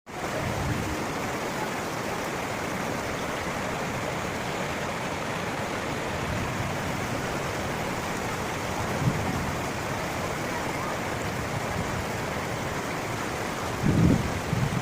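A waterfall's falling water rushing in a steady roar. About a second before the end, low buffeting from wind on the microphone starts.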